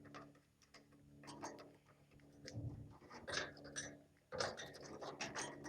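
Lovebirds pecking and cracking seed: an irregular run of small clicks and crunches, busiest in the second half. A faint steady low hum runs underneath.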